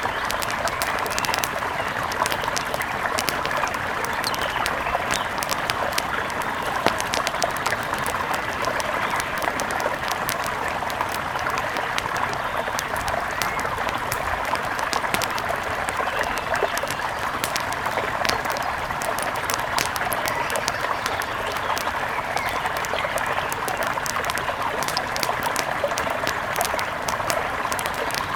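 Mountain river rushing steadily, with frequent sharp crackles and pops of a campfire scattered over it.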